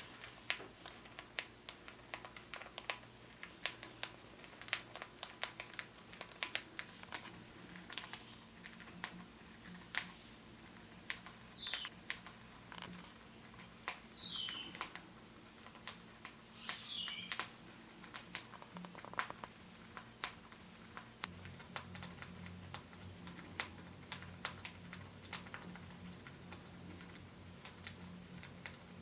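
Cockatiels husking millet seeds with their beaks: a steady stream of small, irregular cracking clicks. Three short, soft falling chirps come near the middle.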